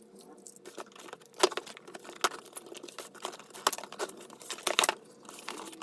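Cardboard shipping box and its packaging being handled and opened, sped up: quick irregular clicks, snaps and crinkling rustles, the sharpest snap just under a second and a half in.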